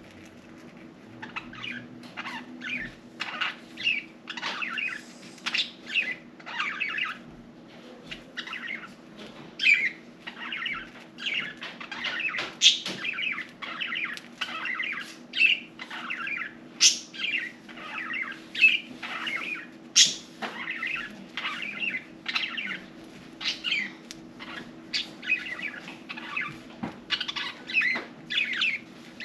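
Budgerigars chirping in short, quick calls, roughly two a second, over a steady low hum.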